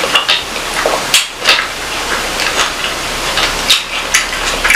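Close-miked eating sounds: wet chewing and lip-smacking, with a quick smack or click every third to half second over a steady hiss.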